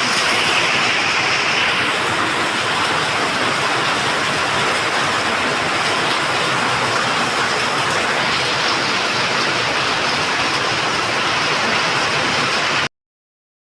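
Hail and heavy rain falling in a dense, steady rush of noise that cuts off suddenly near the end.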